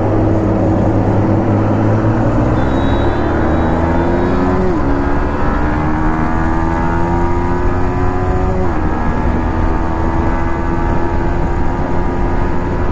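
Yamaha MT-15's single-cylinder engine accelerating through the gears, its pitch climbing steadily and then dropping sharply at two upshifts, about five and nine seconds in, over wind and road noise.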